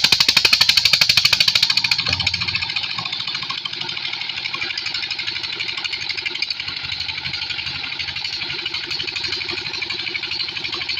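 Borewell pump engine running with a fast, even beat. It is louder for the first two seconds, then settles a little quieter and steady.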